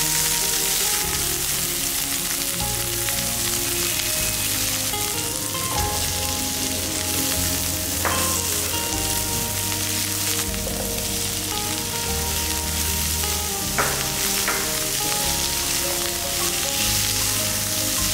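Food frying in hot oil in a pan, a steady sizzling hiss with a few brief clicks, over soft background music.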